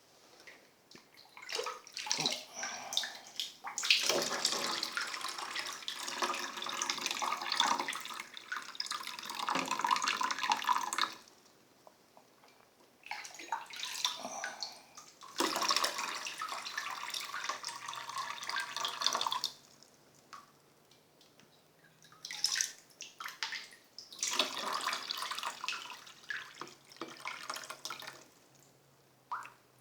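Water running from a tap and splashing into a tub, in several spells of a few seconds each with quiet gaps between.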